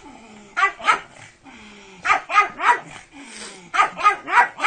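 A pug barking in quick bursts of two to four sharp barks, three bursts about a second and a half apart.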